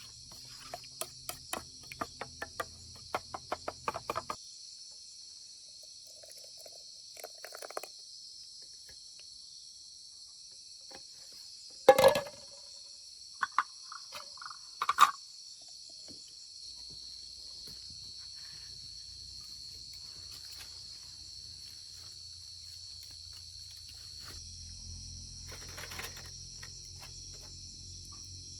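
Steady, high-pitched insect chorus. A quick run of sharp clicks and taps sounds over the first four seconds, and a few louder knocks come around the middle.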